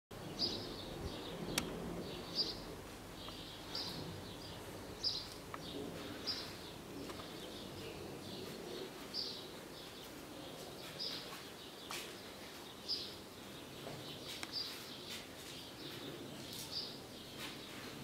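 A small bird chirping over and over, a short high chirp about once a second, over steady background noise, with a few sharp clicks.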